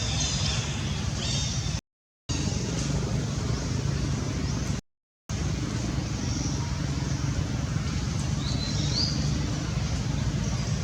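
Steady low outdoor rumble with faint high chirps above it; the sound drops out completely twice for about half a second, near two and five seconds in.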